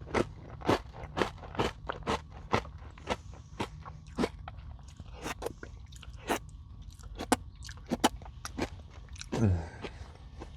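Close-miked crunching and chewing of crunchy granola bars coated in Greek yogurt and whipped cream, sharp crunches coming about twice a second.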